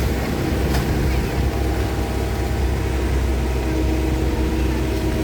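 Excavator's diesel engine running steadily, with a faint clank about a second in.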